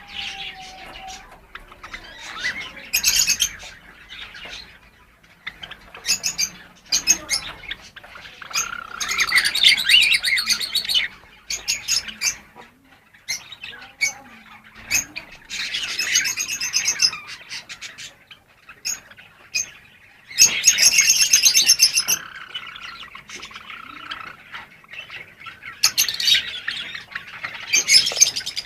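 Java sparrows (Java finches) chirping and singing, several bursts of rapid clicking, bell-like song separated by quieter chirps.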